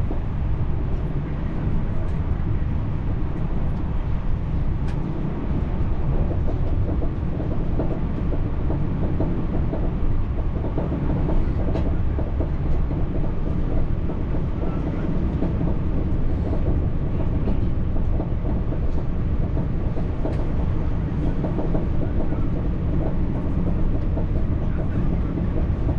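French TER regional train running at speed, with a steady low rumble of wheels on the rails and scattered faint clicks.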